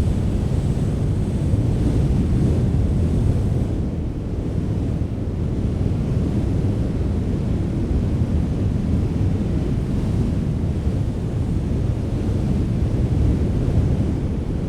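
Wind blowing steadily, a low, heavy rushing noise with gentle rises and falls, buffeting the microphone.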